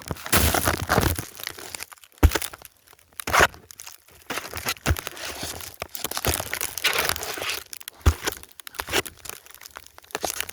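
Snow crunching and rustling close to the phone's microphone, irregular, with several sharp knocks from handling.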